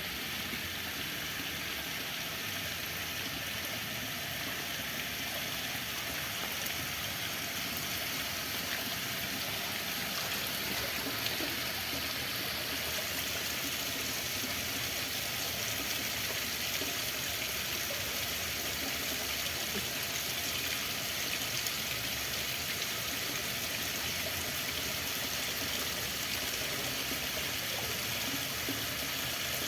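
Running water flowing steadily, an even rush that does not change.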